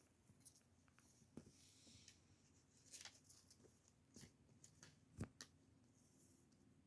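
Faint, scattered clicks and soft paper rustles, with one sharper tick about five seconds in: a pet parrot picking and tearing at a paper notebook with its beak.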